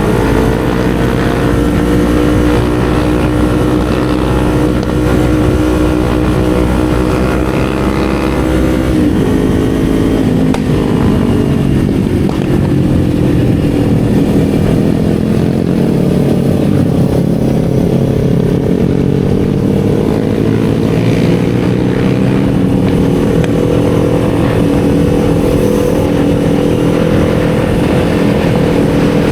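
Kawasaki Z400 parallel-twin engine running as the motorcycle rides along. Its pitch holds steady at first, drops about nine seconds in as the revs fall, then climbs slowly again from about sixteen seconds.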